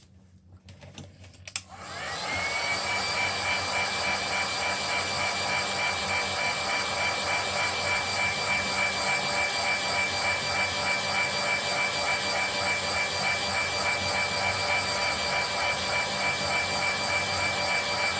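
Electric hot-air blower clicked on, spinning up about two seconds in, then blowing steadily with a high whine.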